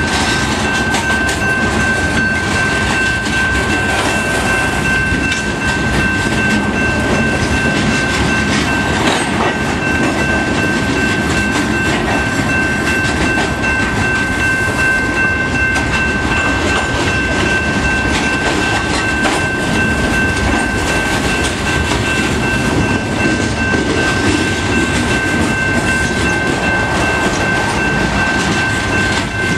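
CSX freight train of covered hopper cars rolling past at close range: a steady, loud rumble of steel wheels on the rails, with a steady high-pitched tone over it.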